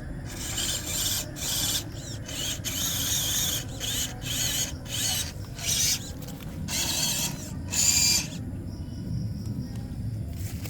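MN99S RC off-road car's small electric motor and gearbox whining in repeated short bursts of throttle, the whine wavering in pitch.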